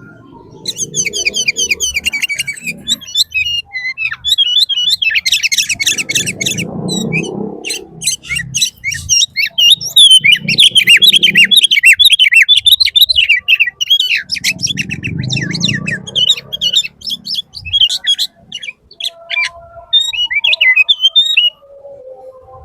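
Birds chirping and trilling in rapid, dense bursts of high notes, with patches of low muffled noise underneath.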